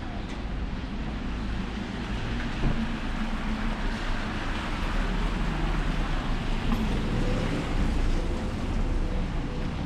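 Steady rain falling and hitting an umbrella, with a low rumble that grows louder about halfway through.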